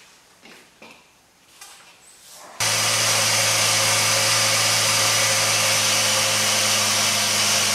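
A Jeep Liberty's 3.7 L V6 engine running at a steady idle, which comes in suddenly about two and a half seconds in after a quiet stretch. The engine is being run to warm up so the thermostat opens and the freshly refilled cooling system takes in more coolant.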